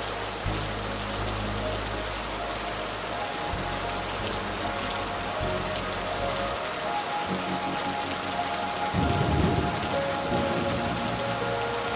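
Steady rain falling on leaves: an even patter of many small drops. Low steady tones run underneath and shift in pitch every second or two.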